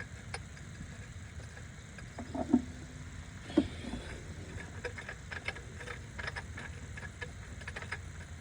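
Tools and loose engine parts being handled: scattered small metallic clicks, with two louder knocks a couple of seconds in and a steady low hum underneath.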